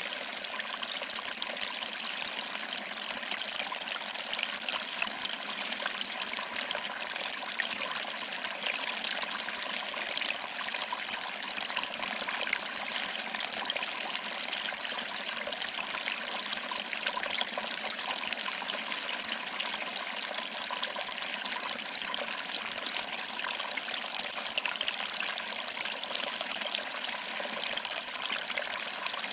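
Small waterfall trickling over rocks and splashing into a pool, a steady even rush of water.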